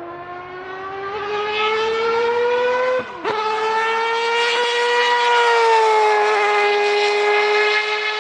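Historic Formula 1 race car engine at full throttle on the straight, its pitch climbing through a gear, with a quick upshift about three seconds in, then holding high revs and easing slightly near the end.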